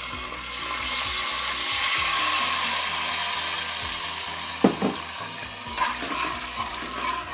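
White wine poured into hot olive oil and fried garlic in a pan, hissing and sizzling. The sizzle swells over about two seconds, then slowly dies down as it is stirred. A metal spoon knocks against the pan a couple of times about halfway through.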